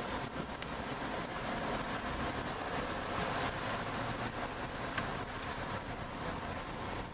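Steady roar of strong wind from a nearby tornado, with a few faint clicks.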